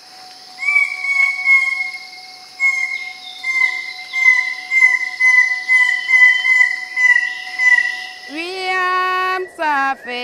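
Bird-of-paradise calling: a long series of loud, repeated notes at one pitch, about two a second, over a steady high hum of forest insects. Near the end a voice begins chanting.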